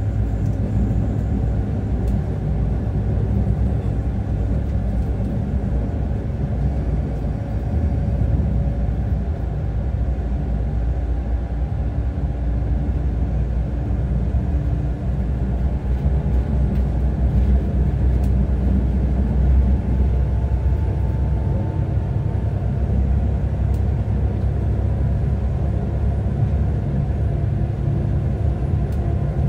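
Interior running noise of a Pesa Link class 632 diesel multiple unit under way: a steady low rumble from the engine and the wheels on the track, with faint tones that drift slightly in pitch.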